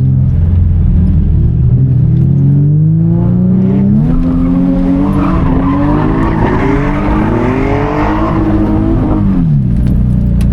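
Infiniti G35 drift car's V6 revving hard through a drift, the engine note climbing steadily while the tyres screech for several seconds in the middle; the revs drop off sharply near the end.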